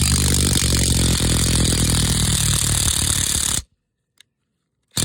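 Impact wrench hammering a lug nut onto a new wheel stud, pulling the stud into the hub. It cuts off suddenly about three and a half seconds in, once the stud is seated.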